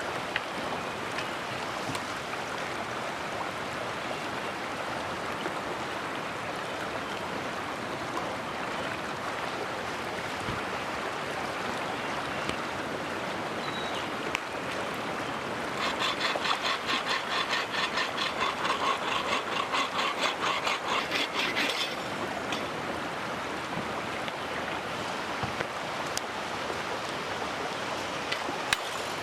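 Mountain stream flowing steadily. About halfway through, a hand saw cuts wood with quick, even strokes for about six seconds.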